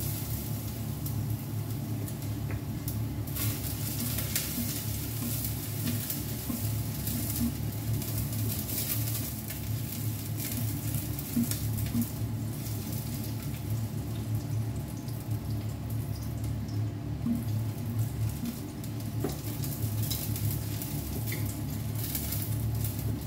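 Garlic and ginger sizzling and crackling in hot oil in a stainless saucepan, stirred with a spoon, over a steady low hum.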